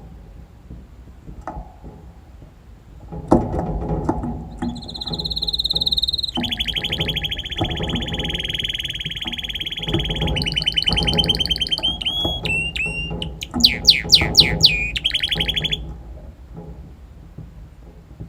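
Red canary singing. After a few seconds it holds a steady high note, then runs into a long rapid trill. It ends with short chirps and a string of fast downward-sweeping whistles before stopping near the end.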